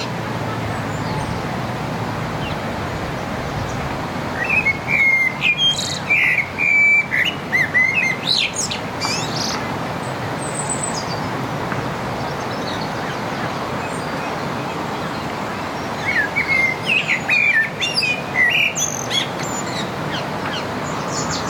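Common blackbird singing: two spells of quick, varied whistled phrases with high twittering notes, over steady background noise.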